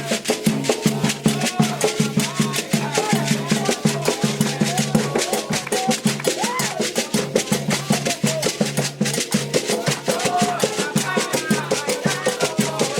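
Candomblé ritual music: atabaque hand drums playing a fast, steady rhythm, with voices singing a chant over the drumming.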